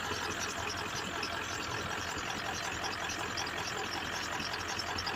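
1995 Ford F-250's 7.3-litre Powerstroke turbo-diesel V8 idling steadily just after a cold start, having sat for five days, with a squeaky pulley on the engine.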